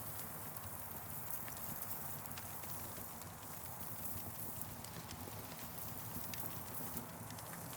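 Campfire crackling: scattered sharp pops and snaps over a steady hiss.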